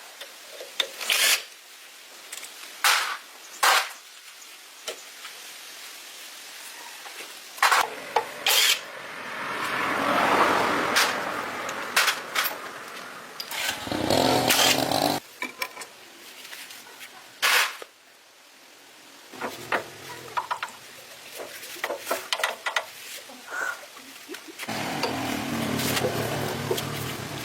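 Workshop work on a diesel engine: sharp clicks and metal knocks from tools and parts, with a few longer bursts of tool noise. Near the end a steadier mechanical running sound sets in.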